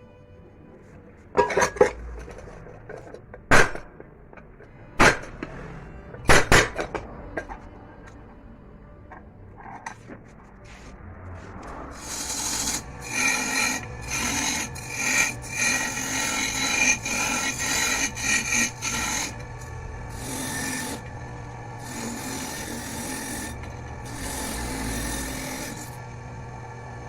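A few sharp knocks, then from about twelve seconds in a long run of rasping strokes: metal of a pressure cooker being filed.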